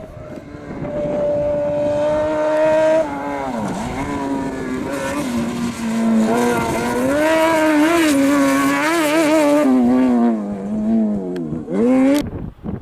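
Competition engine of a rally vehicle at full throttle on a gravel stage: held at high revs, dropping sharply with a gear change about three seconds in, climbing again and wavering, then falling away, with one short sharp rev that cuts off near the end.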